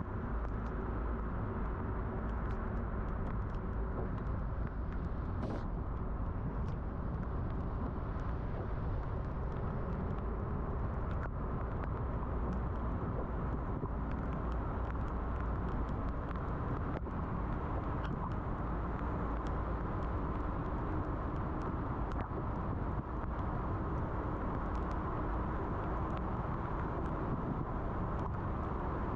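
A car driving on rain-wet roads: steady road and tyre noise with a deep rumble, even throughout, with a few faint scattered ticks.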